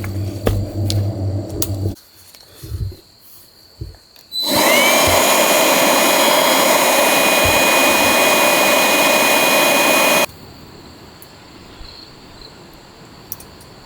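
A small high-speed electric motor starts about four seconds in, its whine rising quickly to a steady pitch. It runs loudly with a rushing hiss for about six seconds, then cuts off suddenly.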